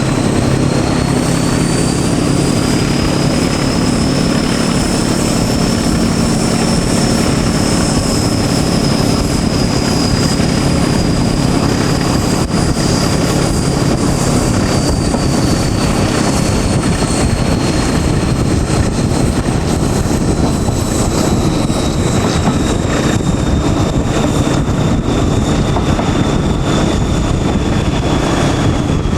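Diesel locomotive hauling a train, heard from behind: its engine runs steadily under the noise of the moving train, with a high whine that rises slowly over several seconds and then falls gently away.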